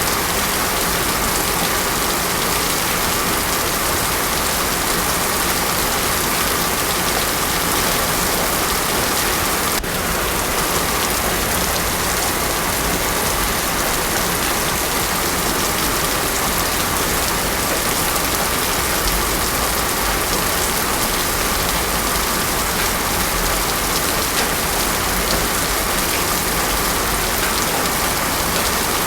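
Heavy rain falling steadily on a road, a dense, even hiss with no thunder.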